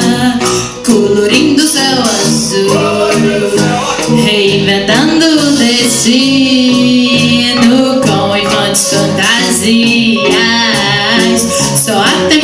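A live band playing a song, with singing over the instruments.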